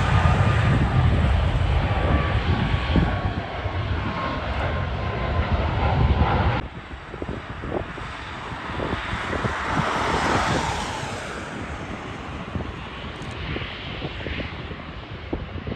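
Jet airliner engines running loud with a deep rumble and a faint, slowly falling whine as the plane passes. About seven seconds in the sound cuts off suddenly to quieter jet noise that swells and fades again.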